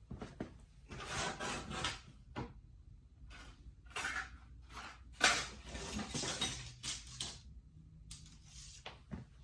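Rummaging through a drawer of small metal rods and parts: irregular clinking and rattling in short bursts.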